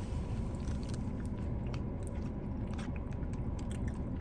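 Close-miked chewing and wet mouth clicks of someone eating soft, creamy mac and cheese, over a steady low rumble.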